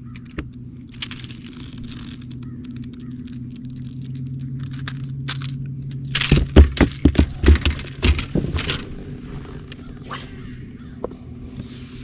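Metallic rattling, clicks and knocks of fishing tackle being handled in a boat, loudest about six to nine seconds in, over a steady low hum.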